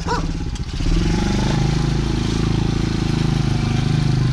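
Dirt bike engine running, picking up revs about a second in and then holding steady as the bike moves off.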